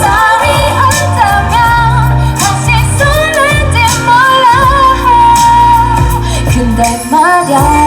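Female vocalist singing a K-pop song live over a pop accompaniment, with sliding vocal runs and one long held note about five seconds in.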